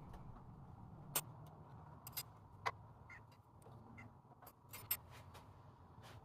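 Faint scattered clicks and taps of small metal parts being handled, a few irregular knocks over a low steady hum.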